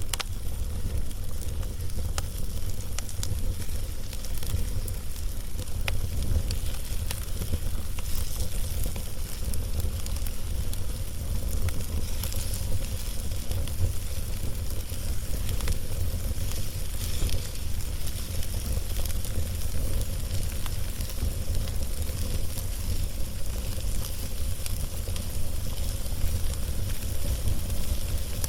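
Wood fire burning on a log, crackling and hissing, with irregular sharp pops scattered throughout over a steady low rumble.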